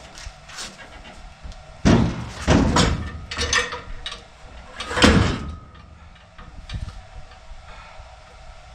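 Heavy steel engine hoist being manhandled onto its base: a run of loud metal clanks and scrapes starting about two seconds in, with the hardest bang about five seconds in.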